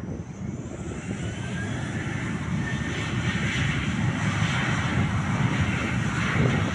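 Aircraft engines growing steadily louder as a plane approaches, with a whine that rises in pitch.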